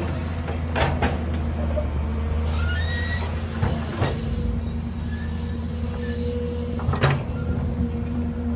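Excavator running steadily with a low engine hum, broken by three sharp metallic clanks spread through and a few faint squeaks in between.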